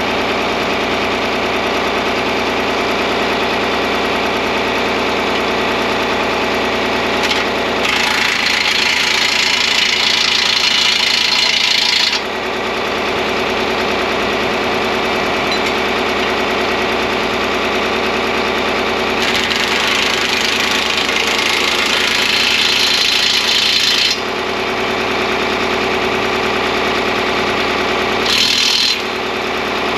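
John Deere 4010 tractor engine idling steadily, with three stretches of high hissing laid over it, about four, five and one second long.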